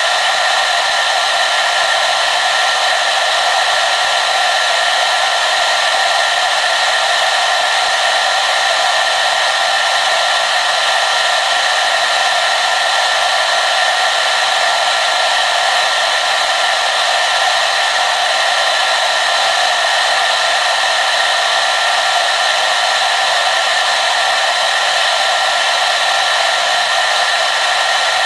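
Hair dryer running continuously at a steady speed, a constant airy whir with a faint steady whine and no change in pitch or level.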